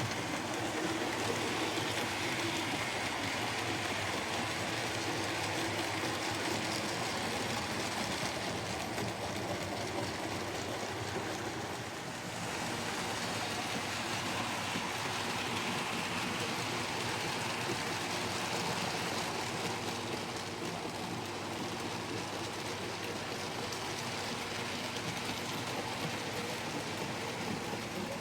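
Model railway train running on the layout's track: a steady rolling rattle of wheels on rails with the motor's hum, easing briefly about halfway through.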